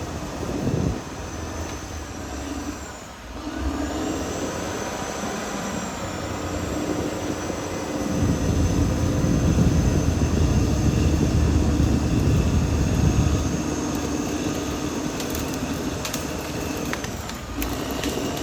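Caterpillar D6R XL crawler bulldozer's diesel engine running steadily, with its steel tracks clattering. About eight seconds in a deeper rumble swells and holds for several seconds, and a few sharp metallic clanks come near the end.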